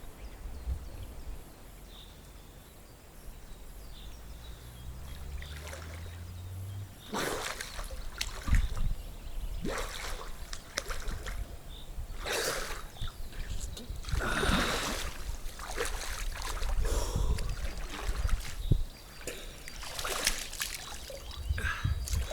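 Cold river water splashing as a person bathes in a small river, irregular splashes and sloshes one after another. The first several seconds are quieter, with the splashing starting about a third of the way in.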